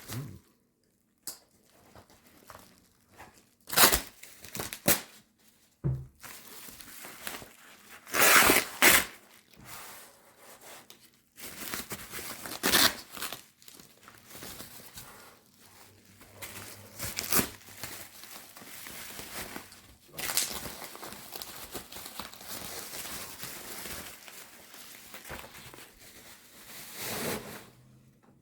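Bubble wrap being pulled and torn off a packed item: irregular crinkling and tearing of plastic. It comes in scattered loud rustles, then a longer stretch of steady crinkling near the end.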